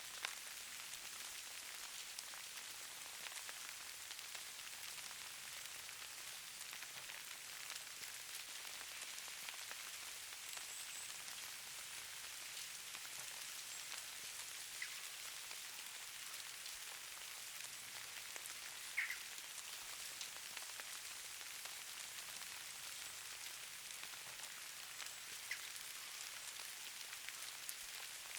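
Snow falling: a steady soft hiss with many light ticks of flakes landing, and a few brighter ticks, the loudest about 19 seconds in.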